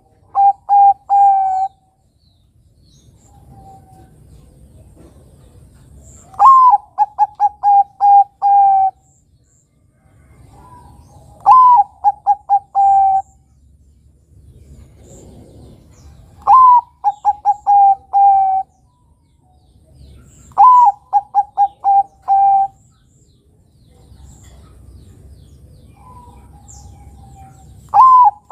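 Male zebra dove (perkutut, Bangkok type) singing: repeated cooing phrases, each a higher opening note followed by a quick run of short, even staccato coos. A phrase comes every four to five seconds.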